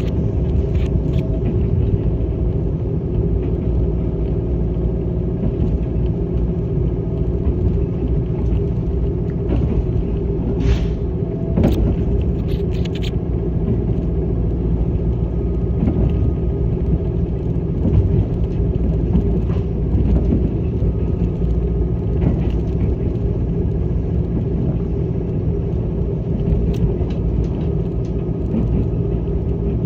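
Limited express Yakumo train running at speed, heard from inside the passenger cabin: a steady low rumble of wheels and running gear, with a few short clicks about a third of the way in.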